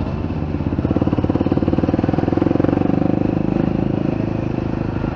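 Motorcycle engine pulling under throttle, its firing pulses rising in level about a second in and easing off after about three seconds.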